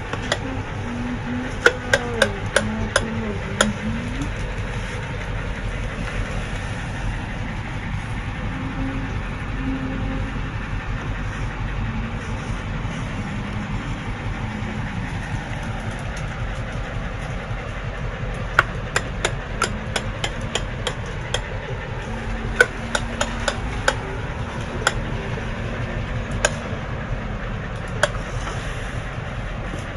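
Toy tractor's engine sound: a steady, rattling idle like a small diesel, with sharp clicks now and then.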